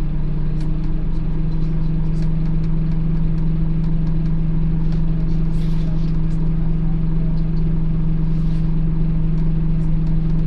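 Scania OmniCity N230UD double-decker bus running steadily, with a constant low hum that holds one pitch and never rises or falls.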